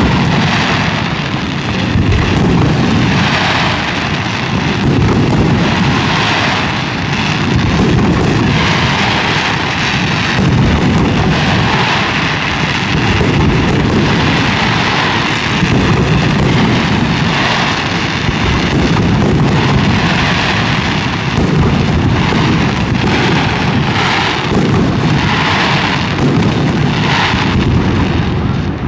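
Aerial firework shells bursting in a rapid, continuous barrage, one bang running into the next with heavy rumble and echo, easing off just before the end.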